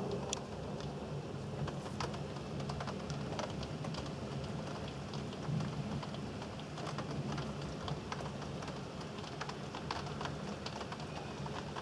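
Rain falling during a thunderstorm, with many sharp, irregular taps of drops hitting a hard surface close by. A low steady hum runs underneath.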